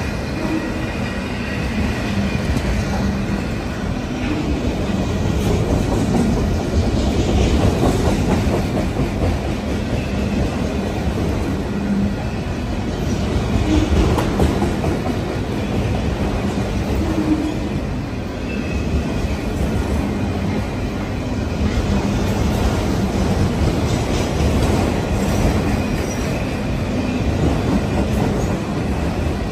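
Union Pacific freight train of autorack cars rolling steadily past close by: a continuous rumble of steel wheels on rail with scattered clacks and, at times, a faint high wheel squeal.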